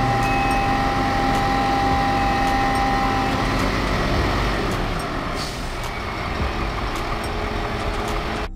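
Heavy truck engine running, with a steady whine over the engine noise that fades out about three and a half seconds in, followed by continuing engine and road noise with faint clicks.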